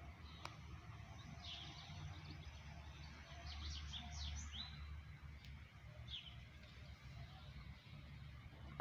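Birds chirping, a quick run of high chirps about four seconds in and a shorter one near six seconds, over a steady low outdoor rumble.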